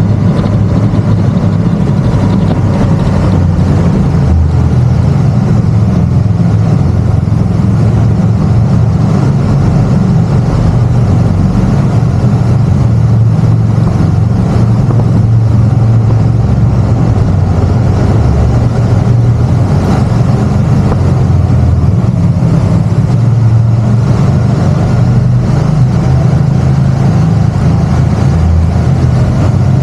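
Can-Am Spyder three-wheeled motorcycle's engine running steadily under way, with a loud low drone that holds at an even level.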